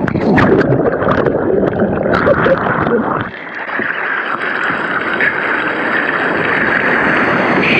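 Water splashing and rushing around a kayak being paddled, with wind on the microphone. About three seconds in, the choppy splashing gives way to a steadier hiss.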